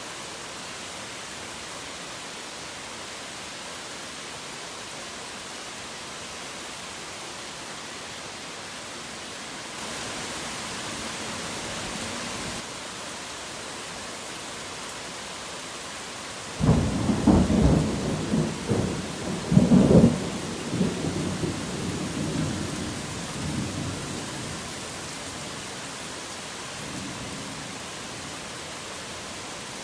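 Steady rain hiss, briefly heavier for a couple of seconds; just past halfway a thunderclap breaks in with sharp cracks and rolls on as a rumble for several seconds before fading back under the rain.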